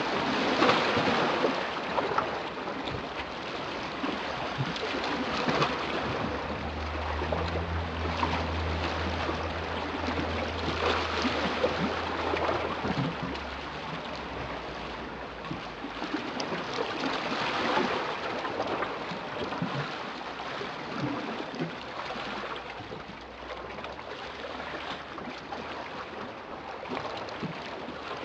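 Sea waves washing in, the surf swelling and easing roughly every five to six seconds. A low steady hum sits under it from about six to thirteen seconds in.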